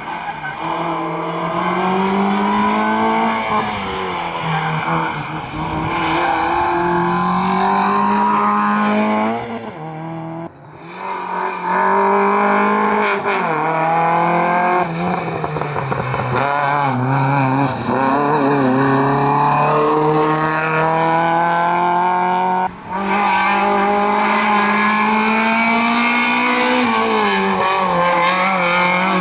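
Rally cars at full attack on a stage. Their engines rev up and drop back repeatedly through gear changes and corners, and the sound cuts abruptly to another car about ten seconds in and again near twenty-three seconds.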